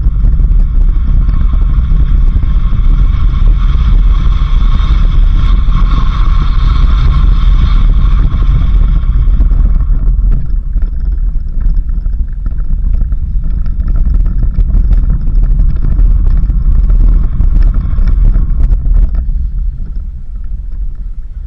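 Vehicle driving on a dirt road: a loud, steady low rumble of engine and road noise. A high, steady whining tone runs over it in the first half and fades out about halfway.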